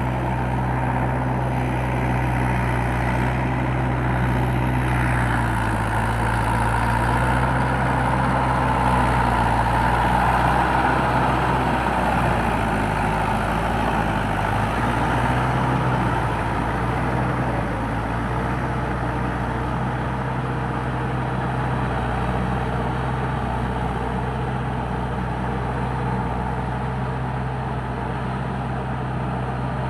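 Mahindra 585 tractor's diesel engine running steadily, getting a little louder through the middle and easing off again later.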